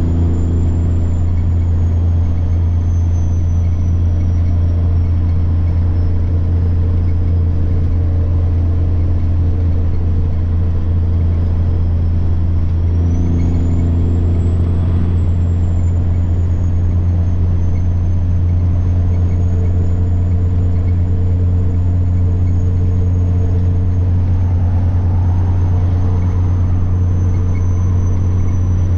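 Semi-truck diesel engine pulling with a steady low drone, and a high turbocharger whine that climbs sharply just after the start and again about halfway through, then slowly eases down.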